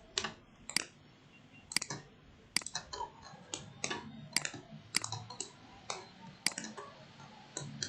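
Computer mouse clicking: a dozen or so sharp, separate clicks at uneven intervals while faces of a 3D model are selected one after another.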